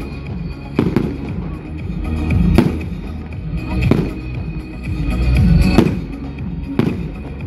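Fireworks shells bursting in sharp bangs, about five of them spread a second or two apart, over music.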